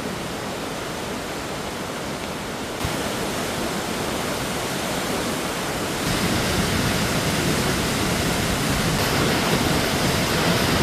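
Flash-flood water rushing in a steady torrent, growing abruptly louder about three seconds in and again about six seconds in.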